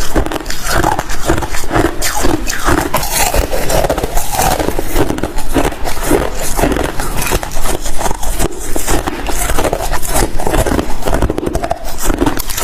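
Close-miked chewing and crunching of ice, one crunch after another about every half second.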